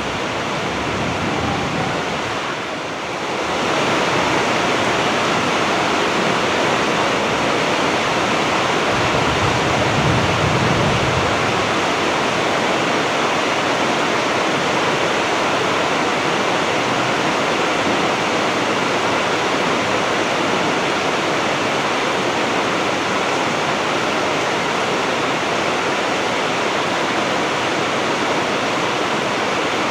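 Heavy rain falling steadily, a dense even hiss that grows a little louder about three seconds in.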